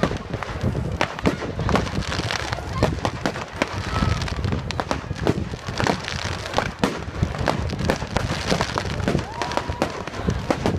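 Fireworks going off in quick succession: a dense string of bangs and crackles from shells and star bursts.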